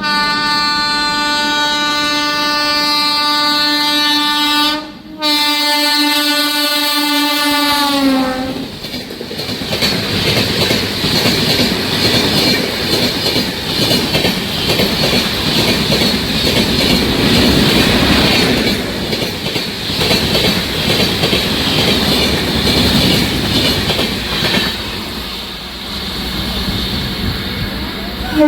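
An Indian Railways electric locomotive's horn sounds long and loud for about eight seconds, with a brief break partway, and its pitch drops slightly as it ends. Then an express train runs through at speed, its wheels clattering over the rail joints steadily.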